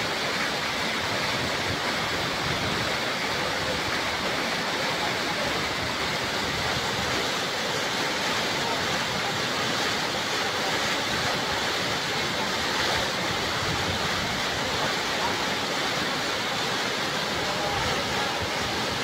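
Waterfall rushing steadily, an even wash of falling-water noise with no breaks.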